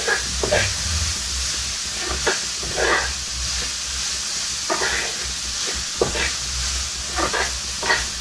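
Parboiled cauliflower frying in oil with chili powder in a pan: a steady sizzle, as it is stirred with short scraping strokes about once a second.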